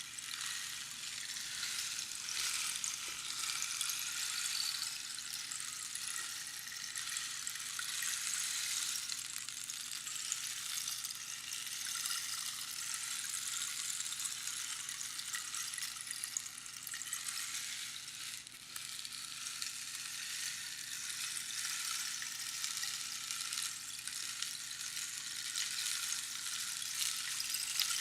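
Rainstick pouring: a continuous fine patter of pebbles falling through the tube, like rain, that swells and eases a little, with a brief lull about two-thirds of the way through.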